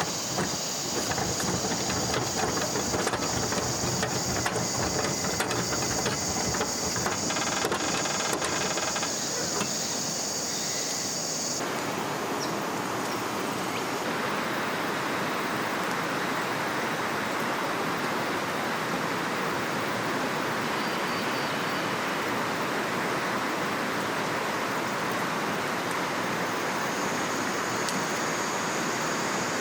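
A steady rushing hiss of flowing river water. For the first dozen seconds a high, steady buzz and scattered clicks and knocks lie over it, then cut off suddenly, leaving the even rush of water.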